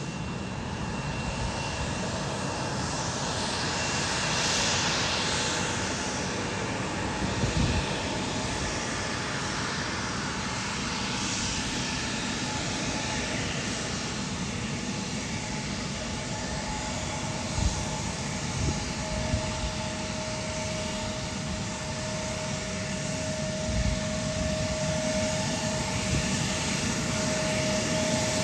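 Airliner's turbine engines running at an airport, a steady rushing roar with a thin whine that comes in about two-thirds through and grows louder. A few brief low thumps.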